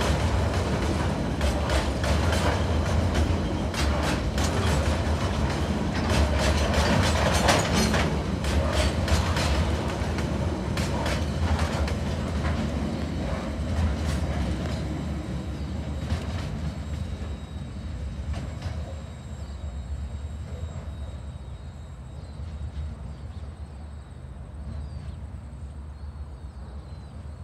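Coal hopper wagons of a freight train rolling past: a steady rumble with the clickety-clack of wheels over rail joints. Over the last ten seconds the sound fades as the train moves away.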